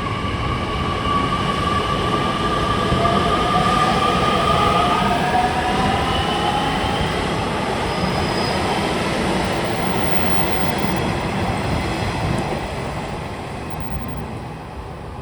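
Nishitetsu 3000 series electric train pulling away from a station. The whine of its traction motors rises in pitch as it gathers speed, over the rumble of the wheels on the rails. The sound fades near the end as the train leaves.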